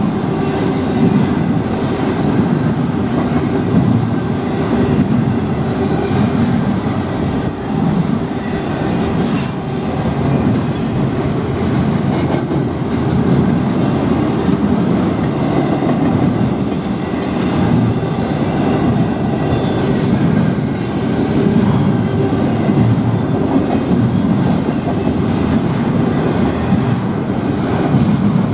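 Freight train rolling steadily past at a grade crossing, its wheels clattering over the rail joints.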